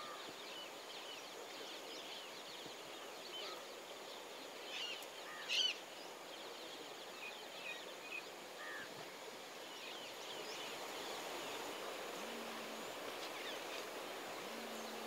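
Outdoor ambience: many short bird chirps scattered over a faint steady hiss, with one louder call about five and a half seconds in.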